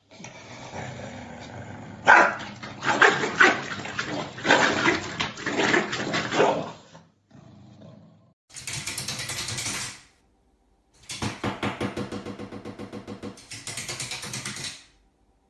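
A dog barking and growling in loud, irregular bursts for about seven seconds, followed by two shorter stretches of animal sound, the last one pulsing rapidly.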